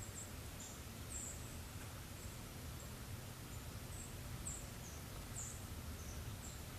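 Small birds chirping: short, very high-pitched chirps at irregular intervals, about a dozen in all, over a faint steady low background rumble.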